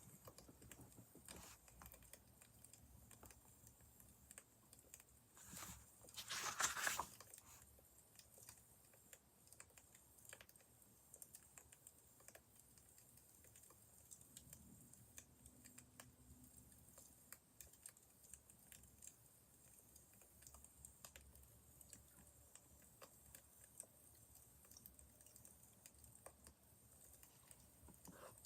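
Faint crackling of a wood fire: small irregular pops and snaps throughout, with a louder rustling burst about six to seven seconds in.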